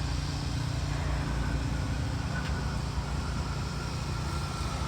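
Steady road traffic noise, with a faint whine from a passing vehicle slowly falling in pitch from about two seconds in.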